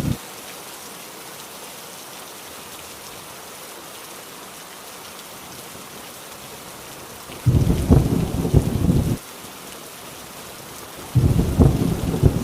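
Heavy rain falling in a steady hiss, with two loud low thunder rumbles: one about seven seconds in lasting under two seconds, and another starting near the end.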